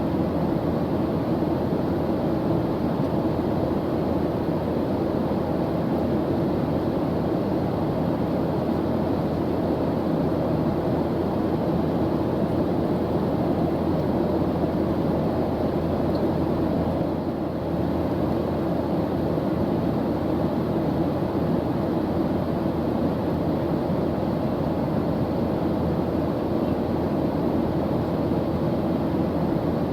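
Airplane engine noise in flight: a steady, unbroken drone, most of its weight low and dull, with no change in pitch or level.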